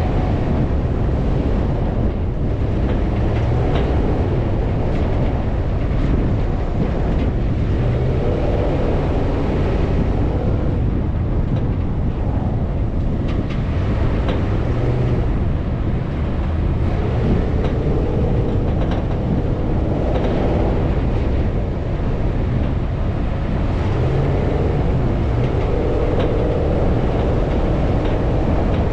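Off-road vehicle engine running under load through sand, a steady low rumble with the engine note swelling and easing several times.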